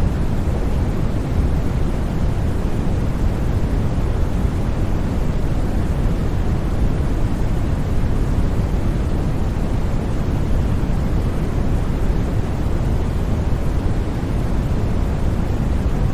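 Continuous white noise for sleep, an even rushing hiss with no changes or breaks, weighted toward the deep end so it sounds more like a low rush than a thin hiss.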